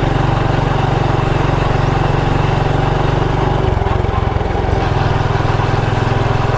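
Motorbike engine running steadily while riding, its note shifting for about a second midway before settling back.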